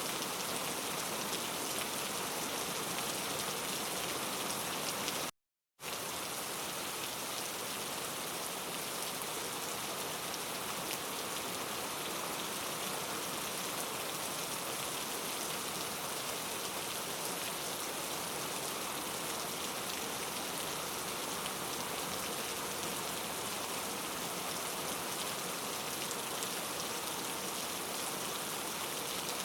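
Steady rain falling, an even hiss of many drops with no single standout sound. About five seconds in, the sound cuts out completely for half a second, then resumes unchanged.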